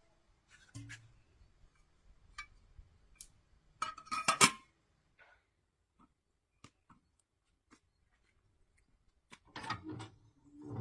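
Scattered light clicks and clinks of cooking utensils and dishes being handled, with a louder clatter about four seconds in and another near the end.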